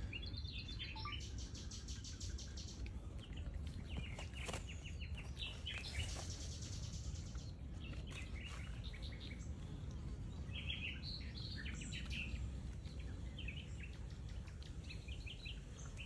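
Wild birds chirping: scattered short high calls, with two rapid, very high runs of notes in the first half, over a steady low rumble.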